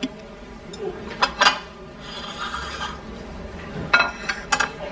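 Tableware clinking and scraping as dishes and utensils are moved on a dining table, with a couple of clinks about a second in and more near the end.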